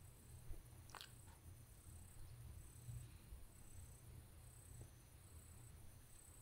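Near silence: faint, high insect chirping that comes and goes over a low steady rumble, with one brief sharp sound about a second in.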